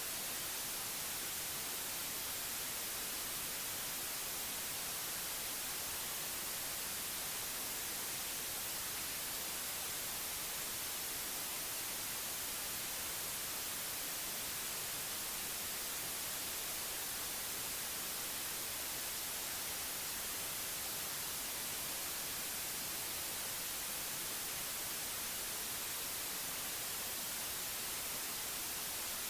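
Synthetic white noise: a steady, even hiss, brightest in the high frequencies and unchanging throughout.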